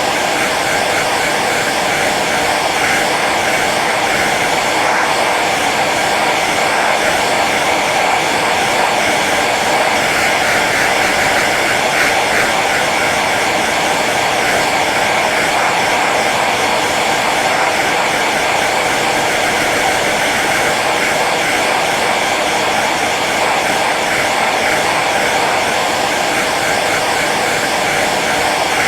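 Hair dryer running steadily on its low setting: an even, unbroken blowing hum.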